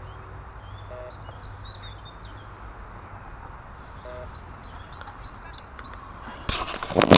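Metal detector giving a few short low beeps over a steady outdoor hiss, with faint bird chirps. Near the end, loud scraping and crunching as the ground is dug into.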